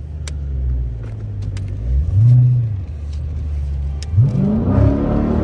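Dodge Challenger Scat Pack's 392 HEMI V8 heard from inside the cabin: a rev rises and falls about two seconds in, then near the end the engine pulls hard and its pitch climbs as the car accelerates.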